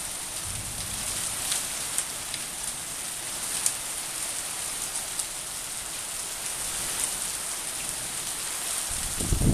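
Heavy rain falling steadily: a dense hiss with scattered sharper drop ticks, and a low rumble coming in near the end.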